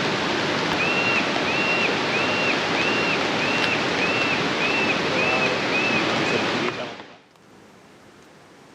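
Fast-flowing river rushing steadily, with a run of about ten short high chirps, about two a second, over it. The water sound drops away sharply about seven seconds in, leaving a faint hiss.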